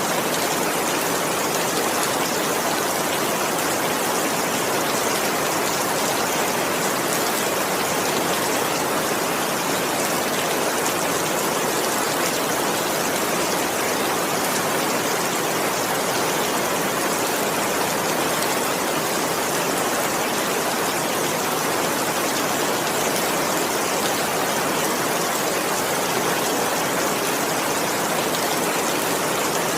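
Steady rain falling, an even unbroken hiss of dense rainfall with no distinct drops or thunder standing out.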